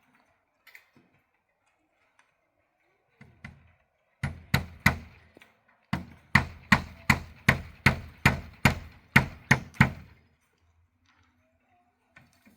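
Sharp, even blows on wood: three quick strikes, a short pause, then about eleven more at roughly three a second.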